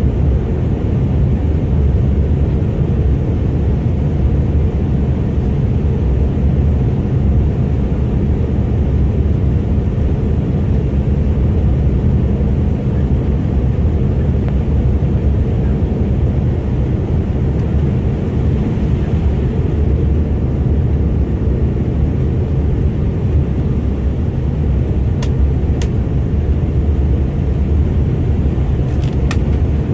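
Steady cabin noise of a Bombardier CRJ900 regional jet in flight: its rear-mounted turbofan engines and airflow over the fuselage make a loud, even low rumble, with a few faint ticks near the end.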